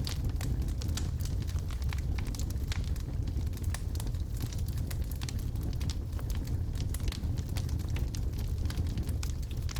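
Wood logs burning in a fireplace: a steady low rumble of the flames with many sharp, irregular crackles and pops.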